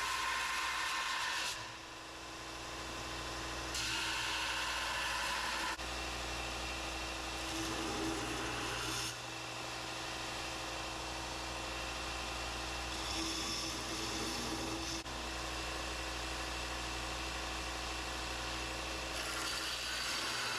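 Belt sander running with a steady motor hum while a Damascus steel knife blank is ground on the belt, the grinding hiss growing louder and softer in spells as the blade is pressed on and eased off.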